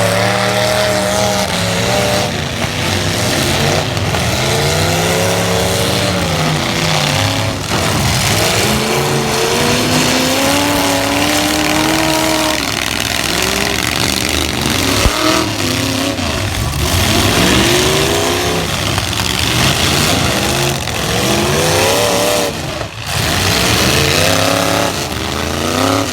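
Demolition-derby light trucks with their engines revving hard, rising and falling in pitch again and again, over a constant din of engine and tire noise.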